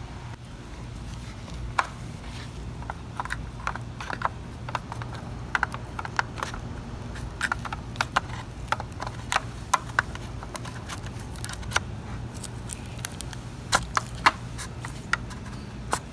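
Irregular light clicks and taps of hand work with small parts and tools, a few of them sharper knocks, over a steady low hum.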